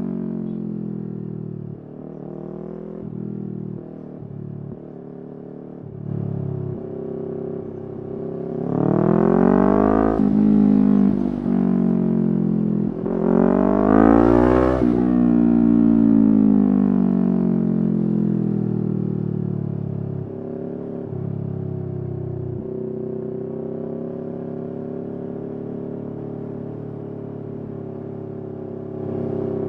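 Yamaha R3's parallel-twin engine under way: short rises and dips in revs early on, then two hard climbs in revs about nine and fourteen seconds in, the second the loudest. It then winds down in a long falling glide and settles to steady running.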